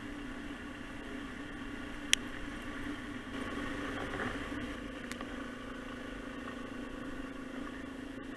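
Motorcycle engine running steadily, with a slight swell about four seconds in. A single sharp click about two seconds in is the loudest sound, and a fainter click follows a few seconds later.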